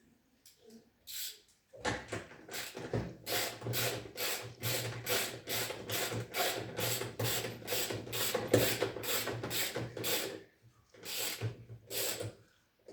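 Ratchet wrench worked back and forth, a rhythmic run of strokes at about two a second that pauses briefly near the end before two more. This is typical of loosening or tightening a bolt while taking apart a front-loading washing machine to change its drum spider.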